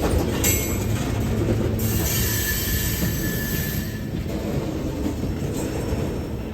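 Freight train cars rolling past on jointed rail, with a faint on-and-off squeal from the wheels. The sound eases off a little toward the end.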